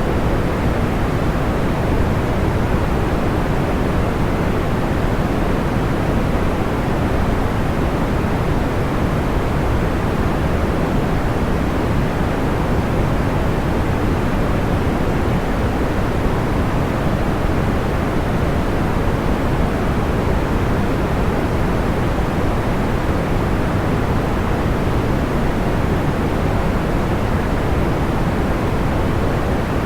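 Steady, soft white noise weighted toward the deep end, even and unchanging, with no distinct fire crackles standing out.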